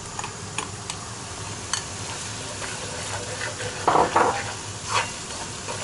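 Sliced bell peppers sizzling in hot oil as they go into a kazan of frying fish fillet and onion and are stirred. A few sharp clicks, then a spatula scraping and clattering against the pot, loudest about four seconds in and again about a second later.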